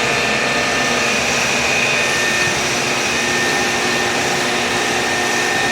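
BFW HF 3.5 milling machine running under power: a steady mechanical whine of several tones from its motor and gearing over an even rushing noise.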